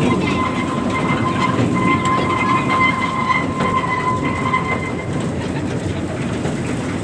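Passenger train running on the rails with a steady low rumble and some clickety-clack. A steady high-pitched tone sits over it and fades out about five seconds in.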